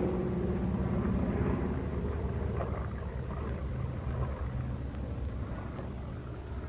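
Twin piston engines of a Junkers Ju 88 droning steadily in flight, easing off slightly toward the end.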